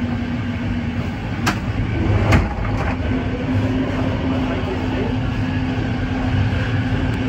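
Passenger train running at speed, heard from inside the carriage: a steady rumble of wheels on rail under a constant hum, with a few sharp clicks about two seconds in.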